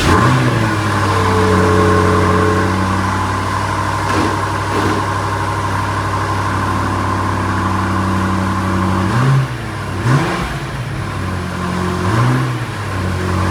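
BMW F90 M5's twin-turbo 4.4-litre V8 idling just after start-up, running through the stock catalytic downpipes. It is blipped in short revs about three times in the last few seconds.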